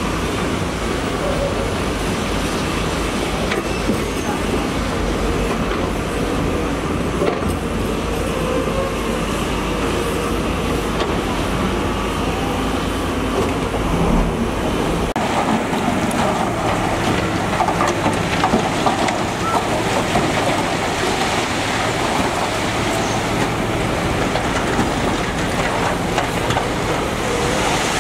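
Heavy diesel construction machinery running at a work site. The deep low rumble drops away suddenly about halfway through, and the machine noise carries on.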